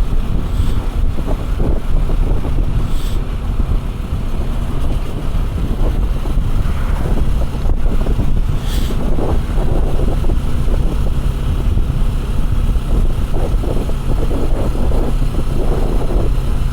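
Heavy wind buffeting the microphone of a motorcycle riding at road speed, a steady low rush with the bike's running and road noise underneath.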